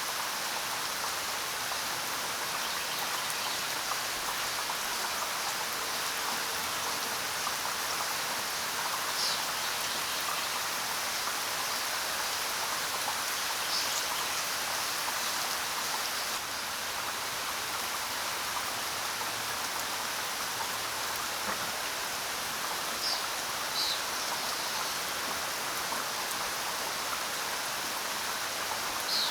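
Steady rain falling in an even hiss, with a few short, high-pitched bird chirps over it, four times.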